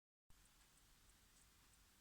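Near silence: faint hiss with a slight low rumble.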